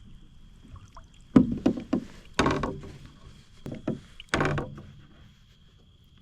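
Water splashing and knocking against a plastic kayak hull in four short bursts, as a large northern pike is brought aboard.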